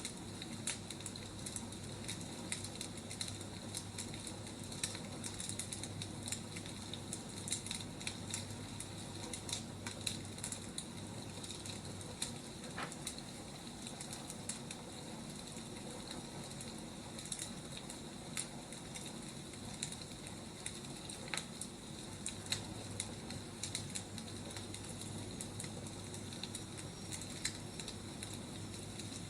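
Burning firewood crackling: irregular sharp pops and snaps over a steady hiss, with a faint steady low hum underneath.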